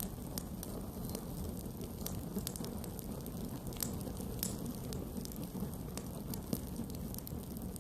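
Campfire burning: a steady low rush of flame, with frequent sharp, irregular crackles and pops from the burning wood.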